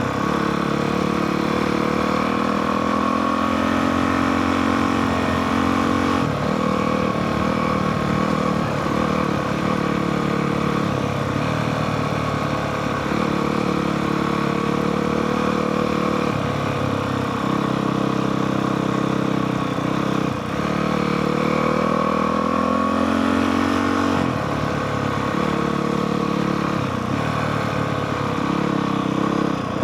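Honda CRF450R's single-cylinder four-stroke engine running on a dirt bike ride, its note rising and falling every few seconds as the rider works the throttle and gears.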